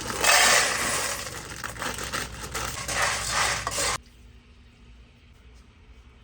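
Kitchen handling sounds: busy scraping and rubbing with small clinks, as food is made ready. It cuts off abruptly about four seconds in, leaving faint room tone.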